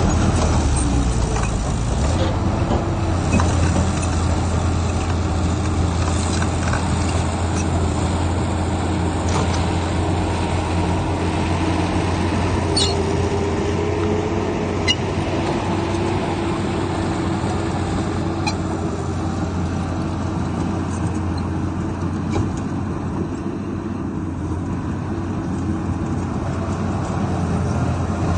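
Heavy diesel earthmoving machinery running steadily under load, with a few short clanks partway through.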